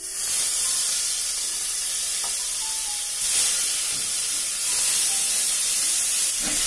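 Onion paste tipped into hot mustard oil in a stainless steel kadai, sizzling and hissing steadily from the moment it lands.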